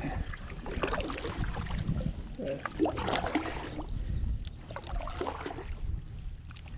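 Kayak paddle strokes in the water, with irregular splashes and drips from the paddle blades.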